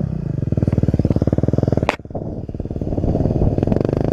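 Dirt bike engine running at a low idle with a rapid, even putter. About two seconds in there is a sharp click, after which the engine runs rougher and less evenly.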